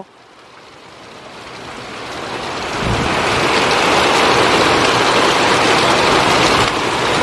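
Heavy rain pouring down in a thunderstorm downpour. It grows louder over the first three seconds and then holds steady, with a brief low thump about three seconds in.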